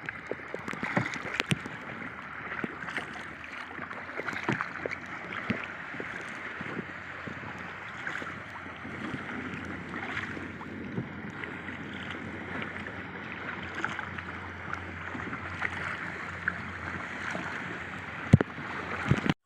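Sea kayak paddling: steady water splashing and lapping around the kayak and paddle blades, with many small splashes and drips. Two sharp knocks near the end.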